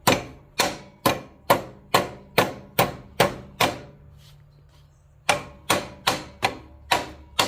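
Hammer blows on metal, tapping the new range selector lever of a Kioti CK2510 tractor into place: nine evenly paced strikes about two a second, a short pause, then six more, each with a brief metallic ring.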